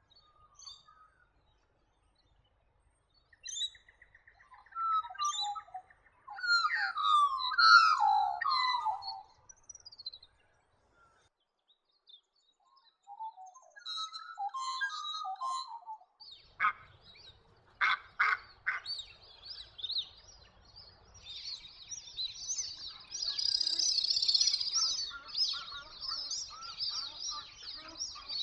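Wild birds chirping and calling in scattered short bouts. A few sharp clicks come about two-thirds of the way in, then many birds chatter together densely near the end.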